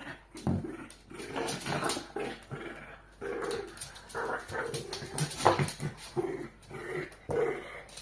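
A dog vocalizing in a long, irregular run of short pitched sounds with brief gaps between them.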